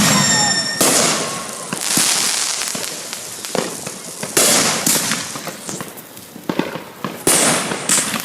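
Fireworks display: aerial shells bursting one after another, about nine loud bangs a second or so apart, each trailing off in a crackle, with a high whistle at the start.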